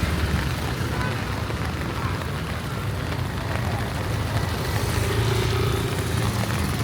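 Steady hiss of heavy rain over the low, continuous rumble of vehicle engines in street traffic.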